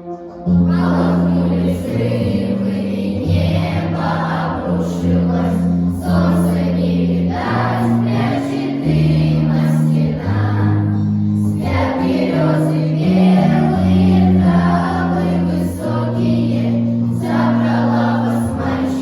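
A children's choir singing a song over an instrumental accompaniment with held bass notes; the music comes in fuller about half a second in.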